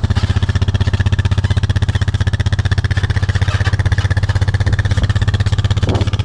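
Vehicle engine running at a steady speed with an even, rapid pulsing, while driving with a load.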